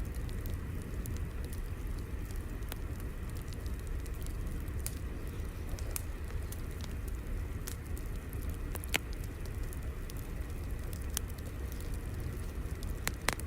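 Crackling wood fire: a steady low rumble with sharp pops at irregular intervals, a louder pop about two-thirds of the way through and a quick cluster of pops near the end.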